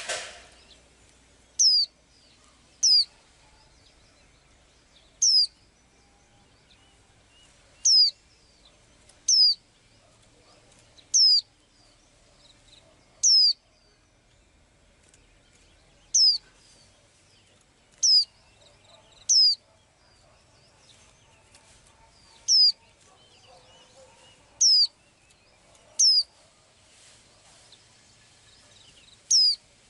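A small bird repeating a single short, high call that sweeps quickly downward in pitch, about fourteen times at irregular gaps of one to three seconds. A brief rustling noise comes right at the start.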